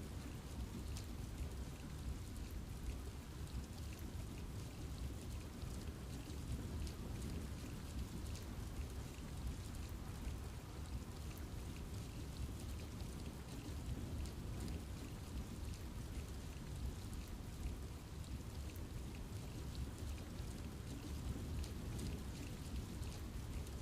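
Steady rain falling on a forest, with scattered close drops ticking over a low, even rumble of rain.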